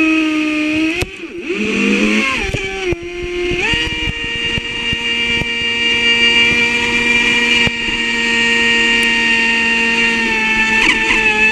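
Traxxas Spartan RC boat's brushless motor whining under throttle. The pitch drops and shifts about one to three seconds in, then holds a steady high whine, with a brief wobble near the end.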